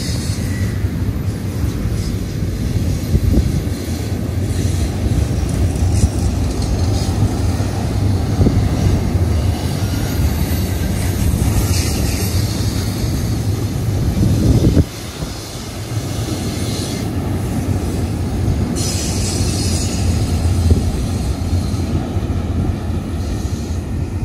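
Double-stack container freight train rolling past on a curve: a steady rumble of wheels on rail with scattered clicks, and patches of high-pitched wheel squeal. The level drops abruptly about 15 seconds in.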